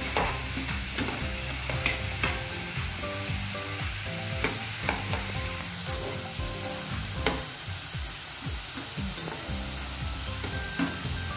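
Frozen shoestring French fries sizzling in hot oil in a frying pan, stirred with a slotted metal spatula that clicks and scrapes against the pan now and then.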